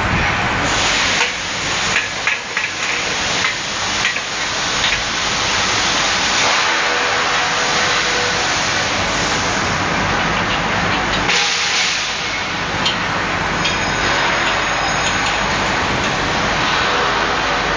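Air conditioner running, a loud steady rush of air with a faint hum and a few light clicks.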